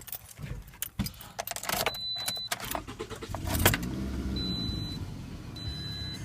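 Keys rattling and clicks, then a Toyota RAV4 engine cranking and catching about three and a half seconds in, settling into a steady idle through its stock exhaust. A high dashboard warning chime beeps at intervals of a little over a second.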